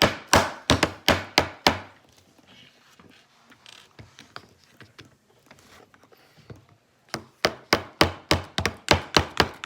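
Hammer striking a nail into a wooden kit piece in quick repeated blows: a run of about five strikes, a pause of several seconds, then a faster run of about eight strikes near the end.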